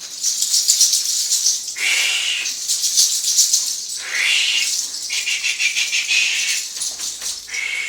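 Rapid, repeated dry rustling shakes of a cleansing rattle or leaf bundle worked over the body, broken by several breathy hisses of about a second each.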